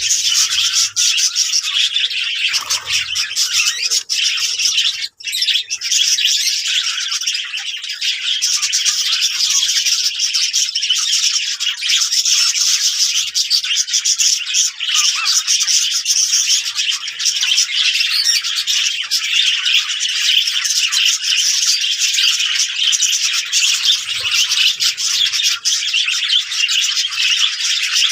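Budgerigars chattering and warbling continuously, a dense stream of quick chirps and squawks with only a brief break about five seconds in.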